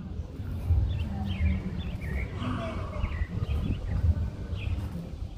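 Birds chirping in the trees, a quick run of short chirps and rising and falling calls, over a low, uneven rumble that is the loudest sound.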